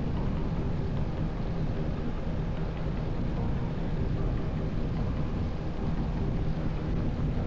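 Motorcycle riding steadily at speed: wind rush on the camera microphone, with the engine running underneath.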